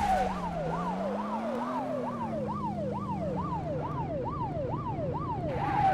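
Cartoon police car siren sound effect: a fast yelp sweeping up and down about two and a half times a second, over a low wavering hum.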